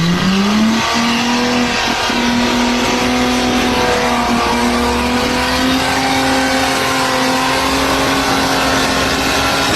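Car engine revving up over about the first second, then held at steady high revs, running loud and even.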